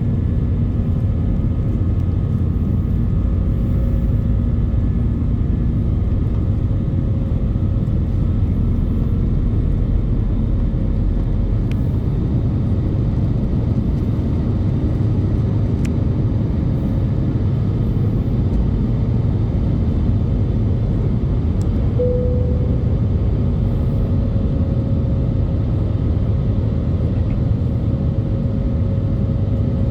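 Airbus A320-200 cabin noise heard from an over-wing window seat: a steady, loud rumble of the engines and airflow, with a few faint steady tones in it, one of which comes in sharply about three-quarters of the way through.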